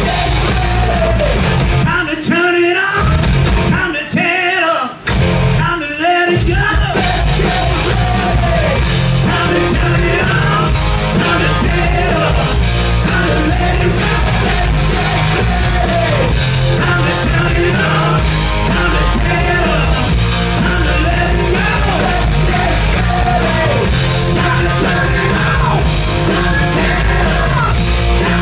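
A live rock band playing loud, with a singer yelling over distorted guitars, bass and drums. The band stops and starts in short hits between about two and six seconds in, then plays on steadily.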